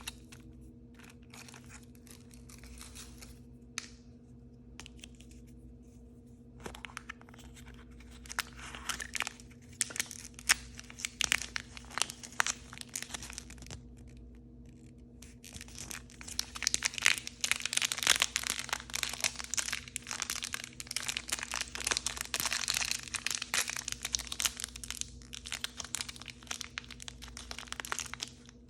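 Plastic blind-bag packaging crinkling and tearing as it is opened by hand, in bursts with short pauses, busiest and loudest in the second half.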